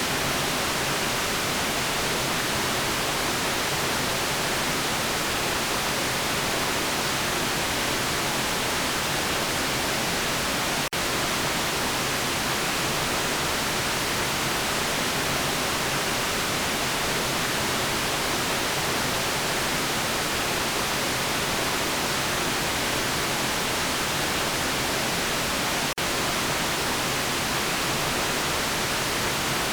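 Steady generated white noise, an even hiss across all pitches with no change in character. It dips for an instant twice, like a seam in the loop.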